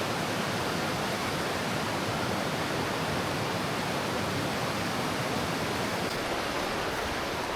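Waterfall and river water rushing, a steady, unbroken hiss of falling water.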